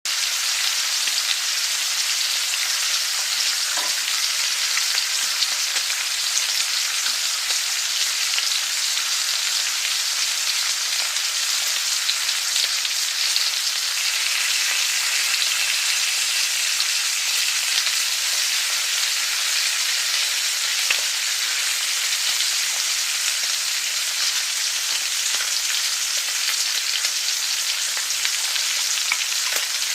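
Food frying in hot oil in a pan: a steady sizzle with fine crackling that keeps an even level throughout.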